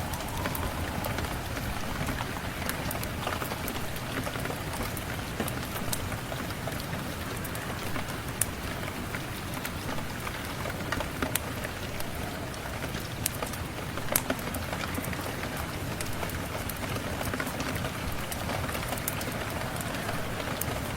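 Steady rain falling, mixed with the scattered sharp crackles of a wood fire in a fireplace, a few louder pops among them.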